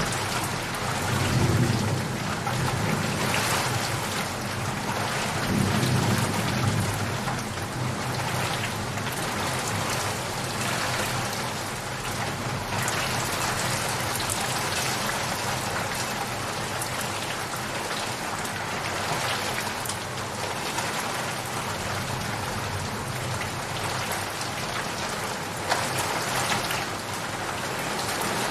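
Steady rain falling, with low rumbles of thunder twice in the first several seconds.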